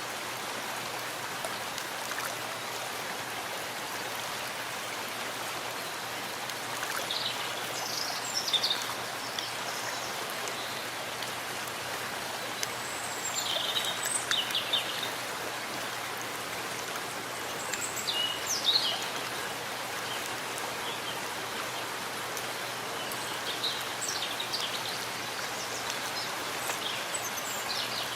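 Steady rain falling in a forest, an even hiss of drops, with short high bird calls breaking through several times, loudest about a third and two thirds of the way in.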